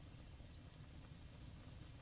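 Campfire burning quietly: a steady low rumble under a faint hiss.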